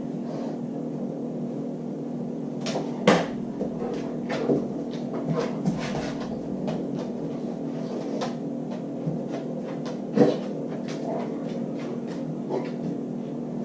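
A refrigerator door being pulled open and pushed shut by a dog fetching a water bottle, with sharp knocks and clatter, the loudest about three seconds in and again near ten seconds, over a steady low hum.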